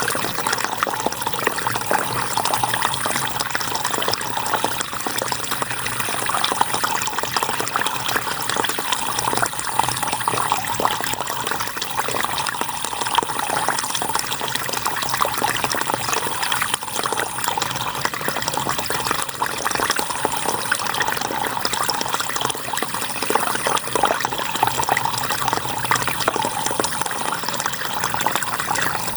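River water flowing, a steady unbroken rush with no pauses.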